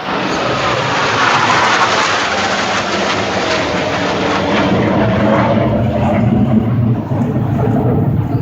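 Blue Angels F/A-18 Hornet jet flying past low and loud. A rush of jet noise peaks in the first couple of seconds, then falls in pitch and turns to a deep rumble as the jet goes by and draws away.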